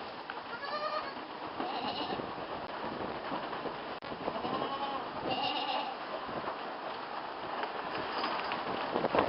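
Goat kids bleating: several short, high-pitched bleats over steady rustling noise.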